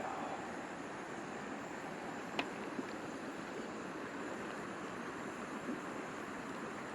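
River water rushing steadily past the bank, a constant even noise, with a light click about two and a half seconds in.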